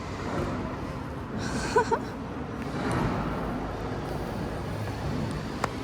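Steady background traffic noise, with a brief faint voice about two seconds in and a single click near the end.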